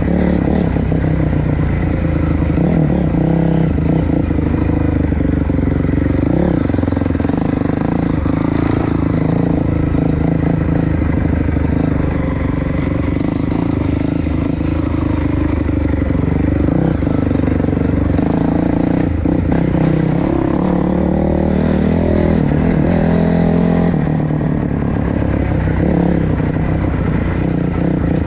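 Dirt bike engine running while riding along a trail, its pitch rising and falling with the throttle.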